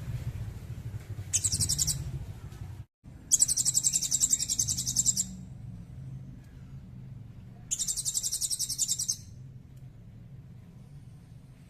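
Small songbird giving a high, rapid trill in three bursts, the middle one the longest, over a low steady background hum.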